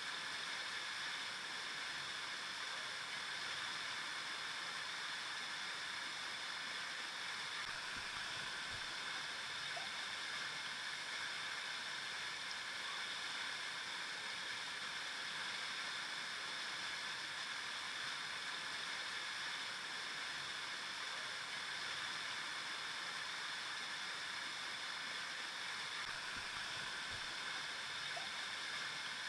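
River water flowing over rocks: a steady rushing and babbling that holds evenly throughout.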